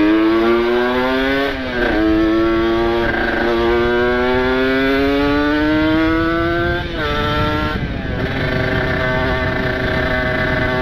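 Kawasaki Ninja RR's ported two-stroke single with an aftermarket exhaust, pulling under acceleration. The revs climb, drop at a gear change about two seconds in, then climb again for about five seconds before falling off and holding steady near the end.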